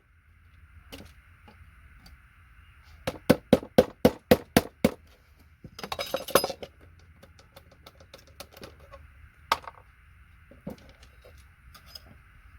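Hammer tapping a paint scraper to knock connectors off a circuit board: a quick run of about eight sharp metal taps. A short clatter of loosened parts follows, then scattered small clicks of pieces being handled.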